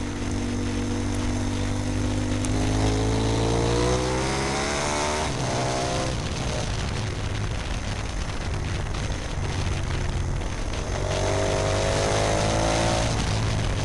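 Onboard sound of a KTM 990 Super Duke's V-twin engine accelerating, its pitch rising for a few seconds and dropping at a gear change about five seconds in. It runs steadier through the middle and rises again near the end, with steady wind rush on the microphone.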